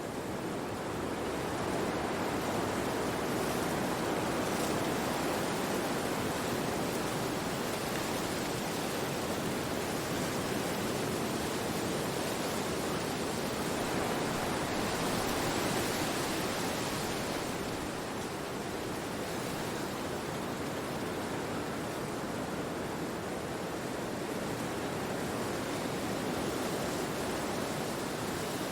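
Wind rushing through forest trees: a steady rushing that swells over the first couple of seconds, gusts a little stronger around the middle, then eases slightly.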